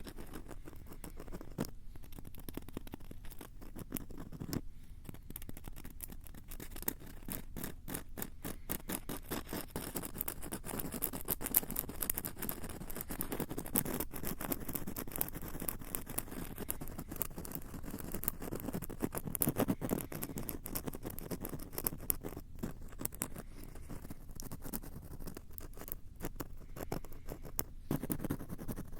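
Scratching and tapping right on the built-in microphones of a Tascam handheld recorder: a dense, unbroken run of quick crackling scratches and clicks.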